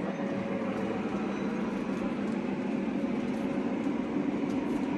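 BNSF freight train rolling past, a steady rumble of wheels on the rails.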